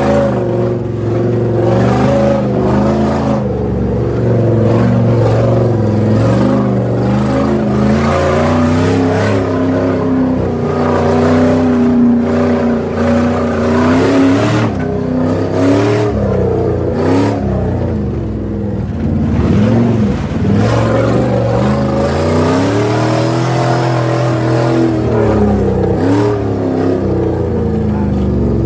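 A Jeep Grand Cherokee's 4.7-litre V8 engine revving up and down continually as it is driven through an off-road course, heard from inside the cab, with frequent knocks and bangs throughout.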